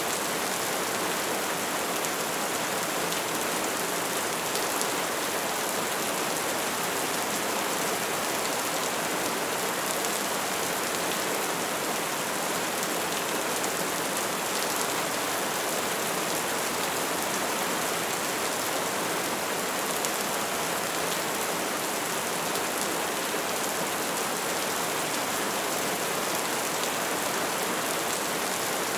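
Steady soft rain falling, an even hiss of many small drops with faint individual drop ticks, unchanging throughout.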